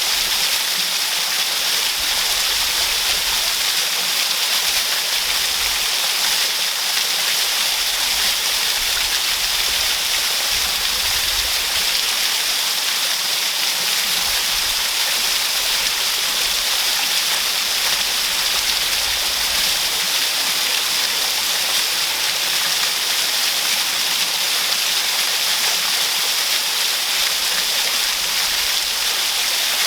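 Waterfall pouring steadily: an even, unbroken rush of falling water, bright and hissy, with no change in level.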